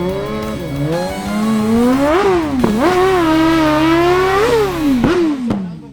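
Sportbike engine being revved: quick throttle blips that rise and snap back down, a longer held rev in the middle, then the pitch falls away near the end.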